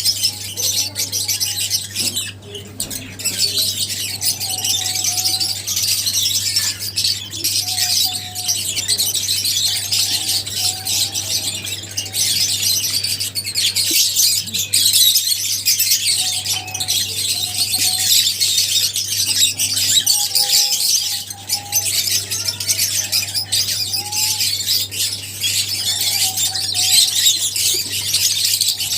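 Many lovebirds chattering and squawking at once, a dense, unbroken mass of overlapping high-pitched calls, over a steady low hum.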